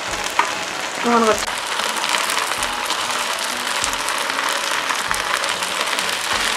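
Chicken pieces and onion stir-frying in hot oil in a frying pan: a steady sizzle that grows louder after about a second and a half.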